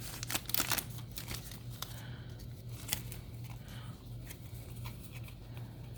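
Crinkling of a foil booster-pack wrapper and trading cards being handled: a burst of crackling in the first second, then scattered small rustles and ticks.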